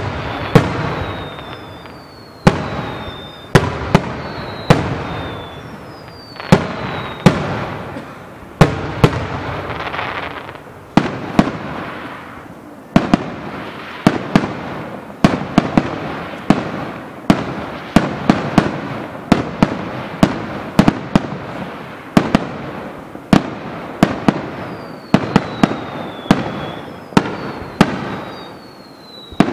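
Aerial firework shells bursting in a rapid barrage of sharp bangs, each with a rumbling echo. The bangs come about once a second at first and grow denser, several a second, from about halfway through. Short falling whistles from whistling shells sound near the start and again near the end.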